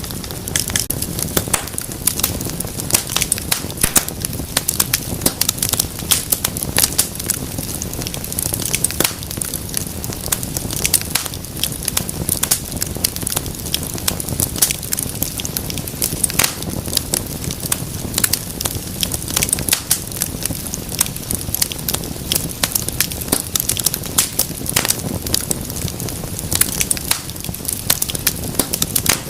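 Wood fire crackling steadily, with frequent sharp pops and snaps over a low rumble of flames.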